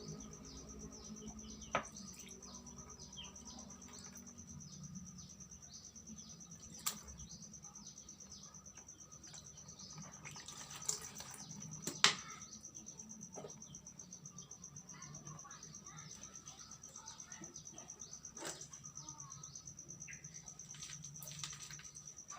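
A steady, rapidly pulsing high insect trill, with many short falling chirps over it and a few sharp clicks or knocks, the loudest about twelve seconds in.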